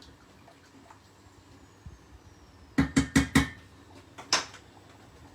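Metal cookware clattering on the hob: four quick clanks about three seconds in, then one more a second later.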